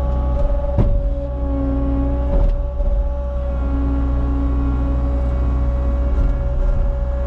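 Cat 279 compact track loader's diesel engine running steadily with a constant high whine. Sharp clanks come about a second in, again around two and a half seconds, and at the end.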